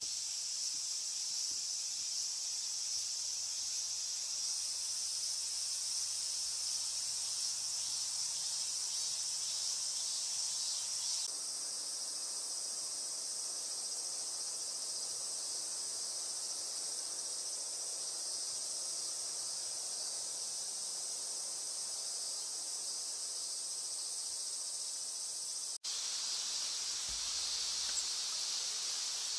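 Steady, shrill chorus of insects. It changes abruptly about eleven seconds in, and again after a momentary dropout near the end, as the ambience cuts between separate recordings.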